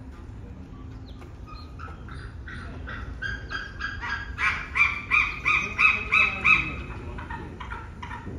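A bird calling a long series of short honking notes, about three a second. The notes build up, are loudest in the middle, and fade away near the end.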